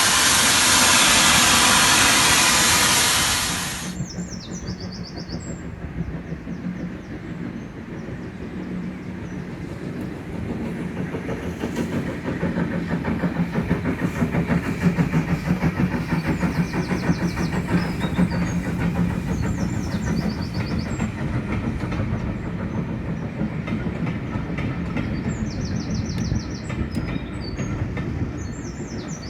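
Steam train on a heritage line: a loud hiss of steam for about four seconds that cuts off abruptly, then the train running with a steady rhythmic clatter that grows louder toward the middle.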